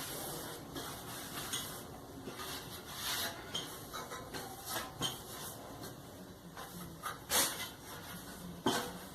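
Hands working parts of a Brastemp clothes dryer during a repair: irregular rubbing, scraping and small clicks of parts being fitted, with two sharper knocks about seven and a half and nearly nine seconds in.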